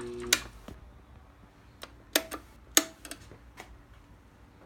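A Litton HSA glass lathe's motor hums steadily and cuts off with a loud click about a third of a second in. A few sharp mechanical clicks and clunks follow about two to three and a half seconds in, as the lathe's manual clutch is worked.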